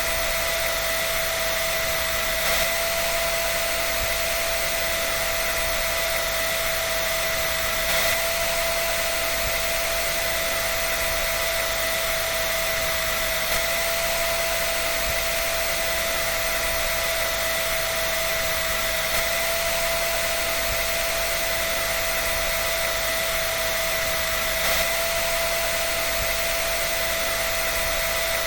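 Dryer running continuously: an even rushing of air with a steady whine over it, unchanging throughout.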